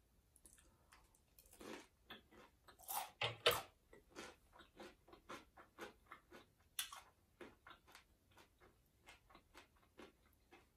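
Close-up chewing of a mouthful of ramen noodles: quiet, wet mouth clicks about twice a second, with a few louder bites about three seconds in.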